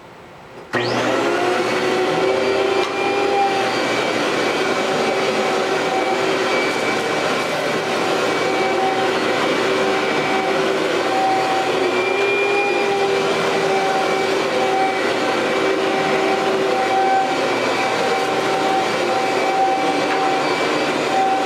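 Amway ClearTrak bagless vacuum cleaner switched on just under a second in, its motor spinning up and then running steadily with a whine.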